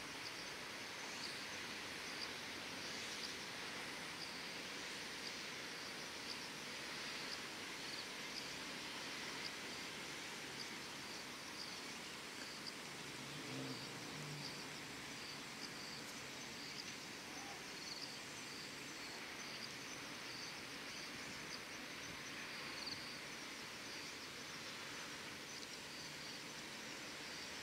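Insects chirping in short repeated pulses over a steady hiss of outdoor ambient noise, with a faint low hum briefly around the middle.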